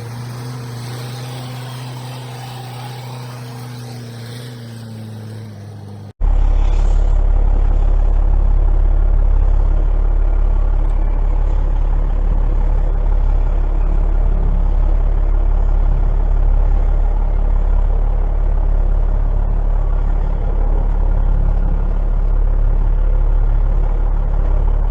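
Heavy truck engine running. A steady engine note holds for about six seconds, then after an abrupt cut a loud, deep, steady engine rumble continues.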